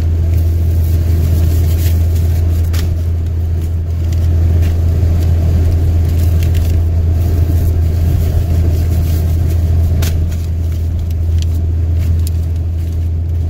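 Steady low rumble of a car's engine and tyres heard from inside the cabin while driving on a snowy road, with scattered faint clicks.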